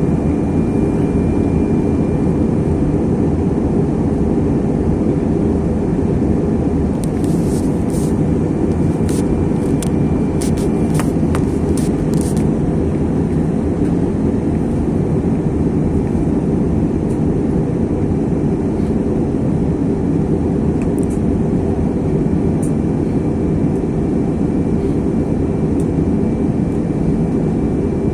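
Steady engine and airflow noise inside the cabin of an Airbus A321 airliner in flight, with a faint thin whine above it. A cluster of small clicks comes between about 7 and 12 seconds in.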